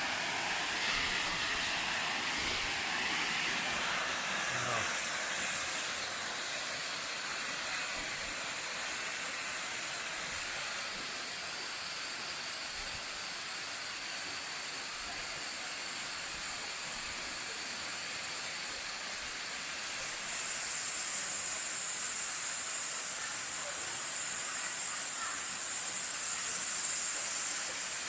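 Steady rushing hiss of a waterfall and stream at the base of the falls.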